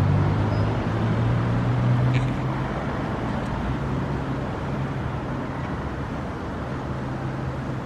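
Low, steady engine drone of a passing motor vehicle or boat, fading as it moves away, over the open-air background noise.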